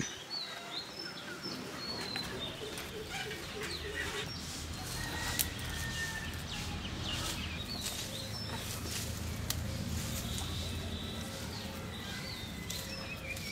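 Outdoor birdsong: several birds chirping and calling in short, scattered whistled notes, over a low background rumble that sets in about five seconds in.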